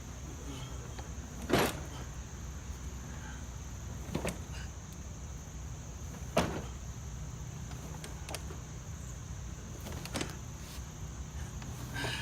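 Hand tools knocking and clicking against the metal of a Cub Cadet lawn tractor's mower deck as it is taken apart: four or five sharp knocks a couple of seconds apart over a steady low hum.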